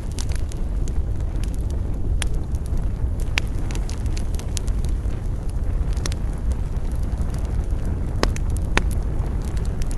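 Wood campfire crackling, with sharp pops about every second over a steady low rumble.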